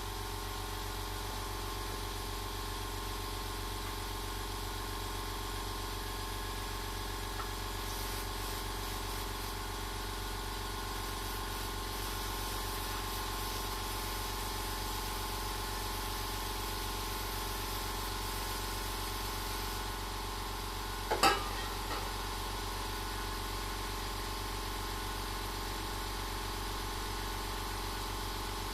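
Single-cylinder Hatz 1B40 diesel engine running steadily at idle, with one sharp knock about two-thirds of the way through.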